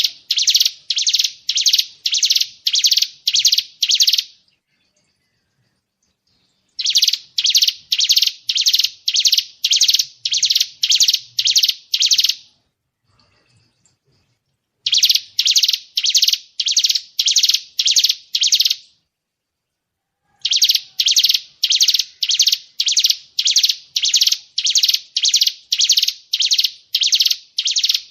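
A songbird's 'tembakan' call: loud, sharp, high-pitched notes repeated evenly at about two a second, in four runs of several seconds each with pauses of about two seconds between them, as in a looped bird-mastering recording.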